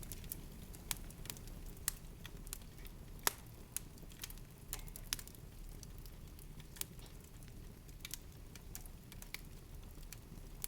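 Irregular sharp crackles and clicks, a few a second, over a steady low rumble.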